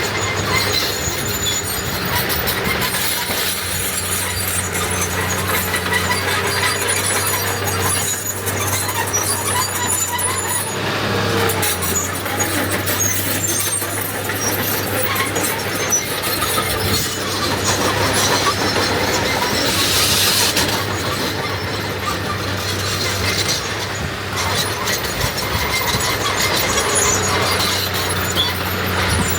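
Heavy earthmoving machinery: a diesel engine runs steadily under high metallic squealing and rattling, with the squeal strongest about twenty seconds in.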